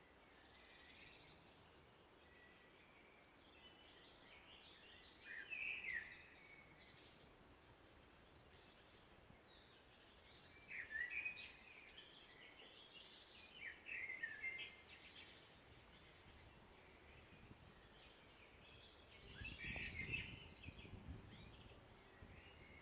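Songbirds singing faintly in short chirping phrases every few seconds over a quiet forest background, with a low rumble near the end.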